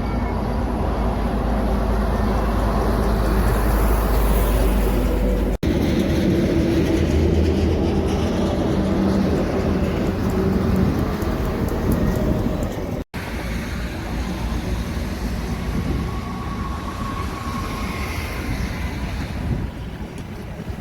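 Heavy vehicles going by with a steady low rumble of engine and wheel noise. The sound breaks off sharply twice, about five and thirteen seconds in, where one clip gives way to the next.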